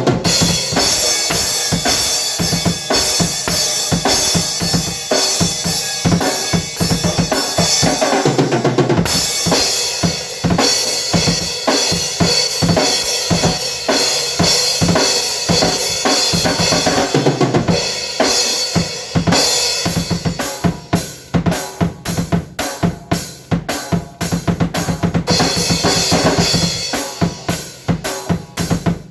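A drum kit being played: a dense run of rapid snare, bass drum and cymbal hits for the first two-thirds, then sparser, separate strokes from about 20 seconds in.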